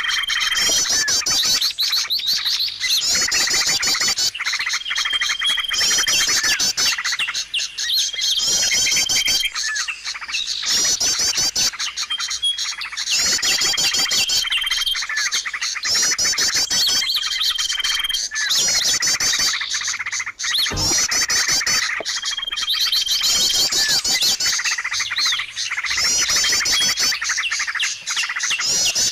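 A songbird singing continuously in rapid chirping phrases that repeat about every two seconds, many of them with a short, steady whistled note. There is a single sharp knock about two-thirds of the way through.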